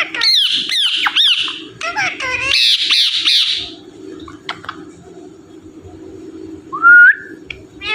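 Indian ringneck parakeet squawking and chattering in a run of harsh, screechy calls for the first four seconds, then, after a lull, one loud rising whistle near the end.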